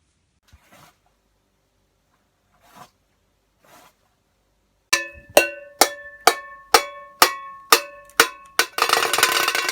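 A few faint rustles, then about nine sharp metallic strikes, roughly two a second, each ringing with several clear tones, followed near the end by a harsh, noisy burst.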